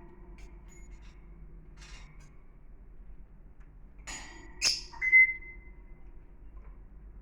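Pet bird of the parrot family giving a short call: a rustly burst, a sharp click, then a brief high chirp about five seconds in, with a fainter call earlier.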